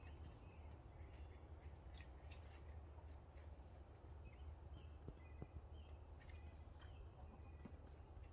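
Near silence: a low steady rumble with scattered faint, short high bird chirps.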